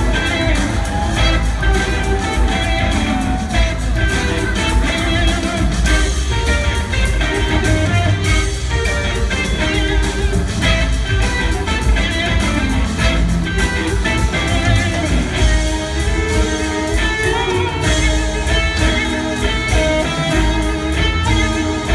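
Live blues-rock band jamming, an electric guitar playing wavering, bending melodic lines over drums and bass.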